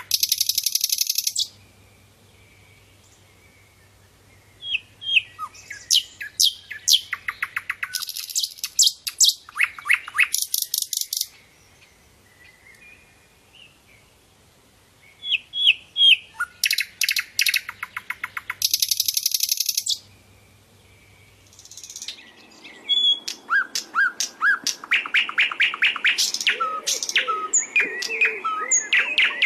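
Sikatan londo flycatcher singing: bursts of rapid, high trilled notes and sharp chirps a few seconds long, broken by short pauses. Near the end the chirping becomes denser and continuous over a background hiss.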